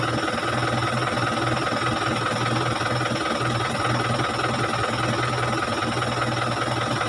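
Car engine idling steadily, heard from inside the cabin, with an even low pulsing hum.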